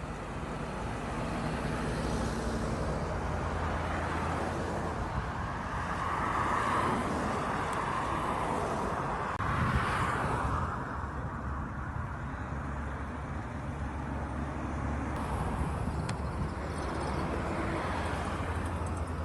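Road traffic noise: a steady rumble of engines and tyres. One vehicle passes close, swelling from about six seconds in and falling away abruptly near eleven seconds.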